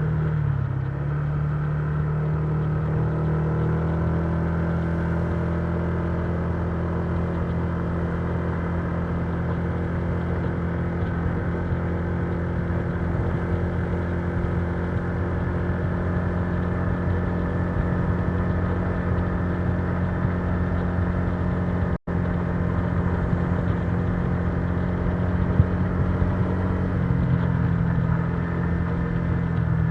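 Honda Giorno 125 scooter's single-cylinder engine running at a steady cruising speed. The pitch dips briefly near the start and then holds even. The sound cuts out for a split second about three-quarters of the way through.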